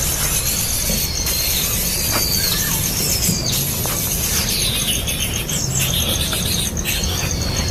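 Bird calls: about five high, thin whistles, each rising and then bending sharply down, over a steady fast-pulsing insect trill and a low rumble.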